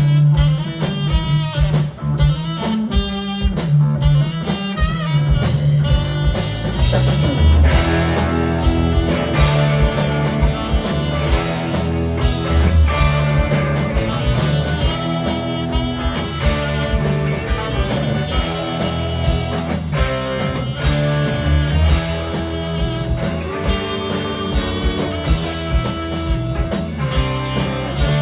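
A band playing an instrumental passage on drum kit, bass and electric guitar, with busy drumming in the first few seconds and then sustained chords over a steady groove.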